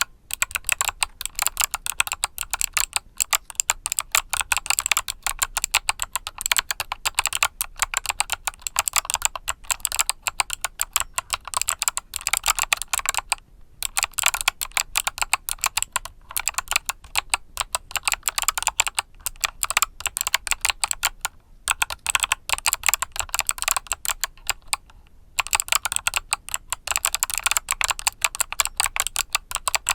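Fast, steady typing on a mechanical keyboard with clicky Kailh Box switches, a dense run of crisp clicks broken by a few brief pauses.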